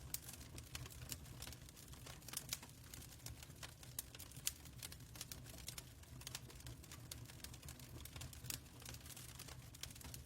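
Fireplace crackling: irregular sharp pops and snaps over a low steady rumble of the fire.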